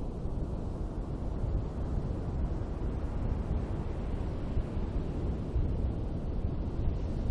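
Ocean surf washing on a beach, a steady rush with a gentle swell about halfway through, under a low rumble of wind on the microphone.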